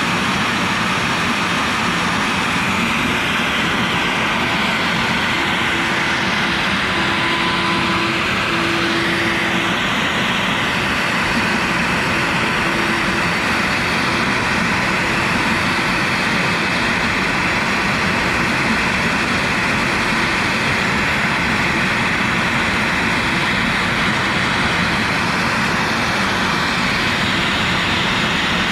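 CNC router spindle and dust-collection vacuum running steadily as a 45° V-bit carves PVC, a continuous even noise with faint tones that come and go.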